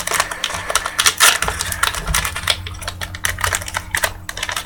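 Trading cards being flipped and shuffled through by hand, a quick irregular run of small clicks and slides of card stock.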